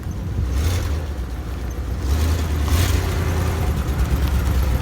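Old water truck's engine running as the truck drives, with a low rumble that gets louder about two seconds in.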